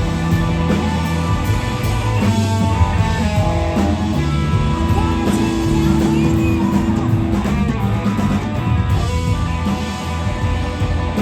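Live blues-rock band playing loud, led by electric guitar with held and bending notes over bass and drums.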